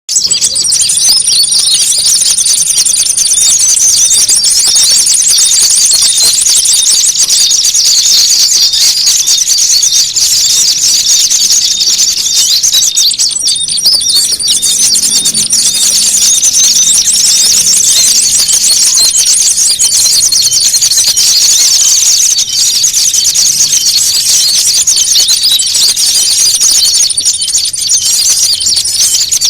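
A dense, noisy chatter of many high-pitched small-bird calls and trills overlapping without pause, with a thin high whistle that comes and goes: a looped "ribut" bird-lure recording of agitated, squabbling small birds, used to draw small birds in. It starts abruptly out of silence.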